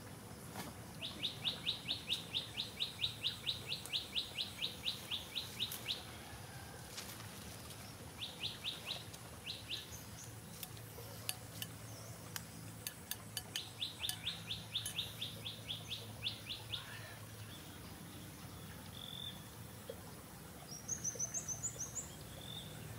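A bird calling in three bouts of rapid, evenly spaced chirps, about six a second, with a few higher twittering chirps near the end.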